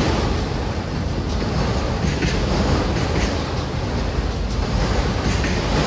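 Empty autorack freight cars rolling past close by: a steady rumble of steel wheels on rail, with a few light clanks and clicks now and then.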